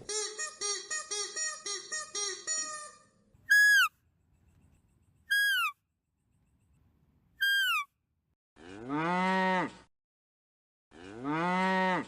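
A cow mooing twice near the end, each a long call that rises and falls in pitch. Before that comes a quick run of short pitched calls, then three brief high calls falling in pitch. These three are the loudest sounds.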